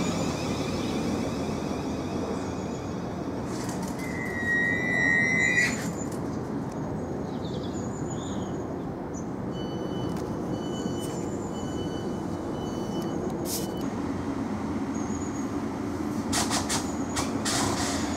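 Multi-unit South Western Railway electric passenger train running through the station: a steady rumble of wheels on rail. A high squeal starts about four seconds in and cuts off after a second or so, a fainter high squeal comes around ten seconds in, and a few sharp knocks come near the end.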